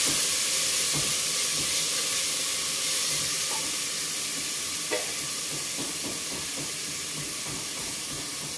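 Chopped onion, garlic and ginger sizzling in hot olive oil in a stainless steel pot: a steady hiss that slowly eases down. A wooden spatula knocks lightly against the pot a few times near the start, and there is a single click about five seconds in.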